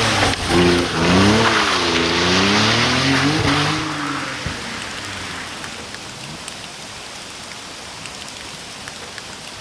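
E46 BMW engine revving up and down, with a broad tyre-and-spray hiss, for about four seconds, then fading away. Rain pattering is left, with scattered drop ticks.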